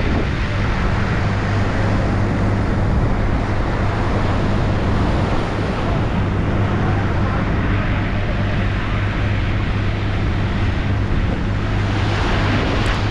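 Boat engine running steadily with a constant low hum, over wind and sea noise.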